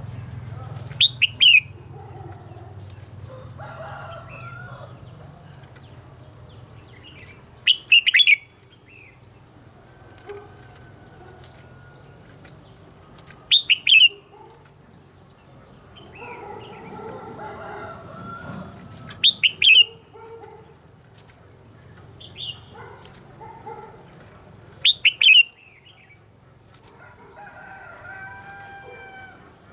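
Red-whiskered bulbul song: five loud, quick phrases of sharp whistled notes, one about every five to six seconds, with softer warbling bird calls in between.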